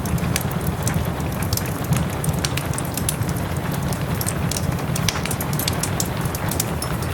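Wood fire in a fireplace crackling, with frequent irregular sharp pops and snaps, over a steady rushing rain.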